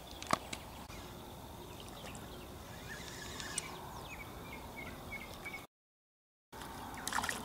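Quiet riverbank ambience with a small bird chirping a quick run of short, high calls in the middle. There is a single sharp click shortly after the start. The sound cuts out completely for almost a second near the end.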